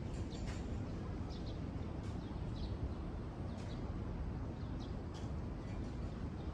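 Small birds giving short, scattered chirps over a steady low rumble of outdoor background noise.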